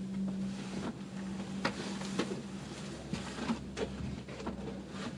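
Ropeway gondola cabin in motion: a steady low hum with scattered clicks and knocks.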